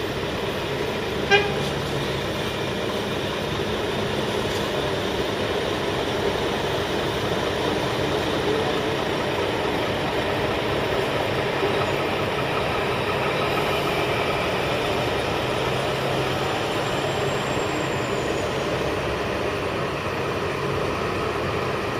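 Heavy road-paving machinery running steadily during asphalt repaving, a continuous engine drone. About a second in, a short, loud horn toot sounds once.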